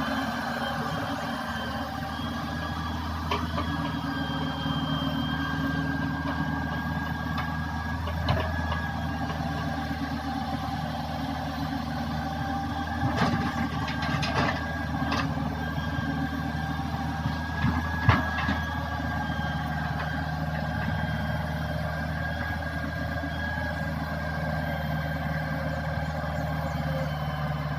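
Hitachi hydraulic excavator's diesel engine running steadily, with a few sharp knocks at intervals, the loudest about eighteen seconds in.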